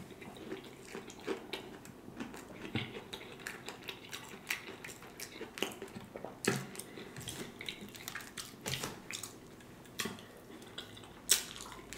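Close-miked chewing and wet mouth sounds of someone eating a sauced fried salmon croquette: irregular soft smacks and clicks, with a few louder ones.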